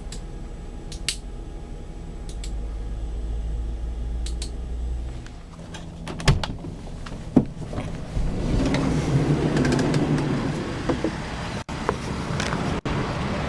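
Mercedes-Benz Sprinter's engine idling steadily as a low hum, with a couple of sharp knocks about six and seven seconds in, then a louder, fuller running sound over the last five seconds.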